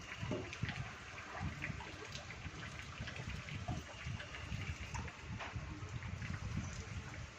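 Rainwater gushing and running in heavy rain, as a steady rushing wash with irregular low thumps.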